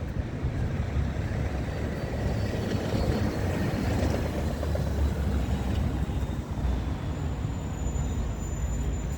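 Bus station traffic: a bus engine running with a steady low rumble that swells around the middle, and a thin high whine near the end.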